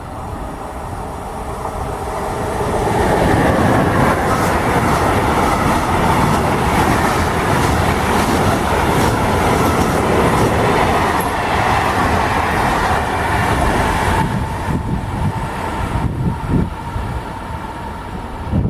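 A train passing close by: the noise builds over the first few seconds, stays loud with wheel-on-rail clatter for about ten seconds, then falls away in the last few seconds.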